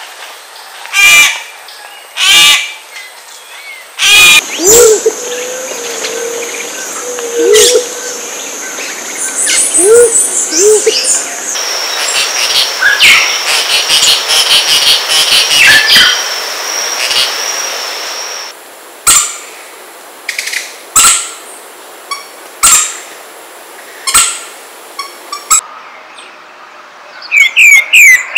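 A sequence of wild bird recordings. Black-chested jays give two loud calls in the first few seconds. Masked tityras follow with insect-like calls, and pale-breasted thrush song starts near the end.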